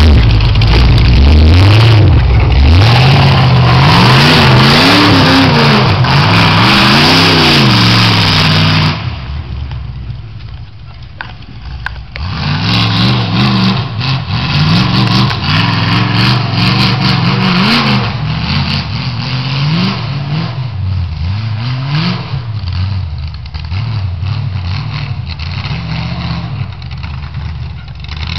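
Demolition derby truck's 500 hp small-block Chevy V8 revving up and down over and over. It drops quieter for about three seconds near the middle, then revs hard again.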